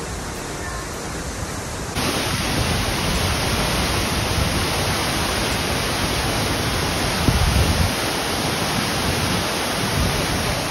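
A powerful waterfall, Wachirathan Falls, pouring and crashing with a loud steady rush. It grows louder and fuller about two seconds in, with a deeper rumbling swell a little past the middle.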